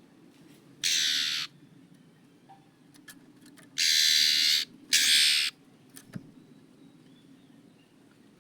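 Oriental magpie-robin giving three harsh, rasping calls, each under a second long, the second and third close together, over a faint low hum.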